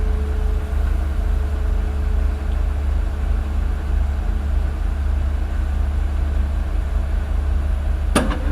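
Heavy diesel engines of earthmoving and recovery machines running steadily with a deep rumble, as a stuck excavator is pulled out of clay. A sharp click sounds near the end.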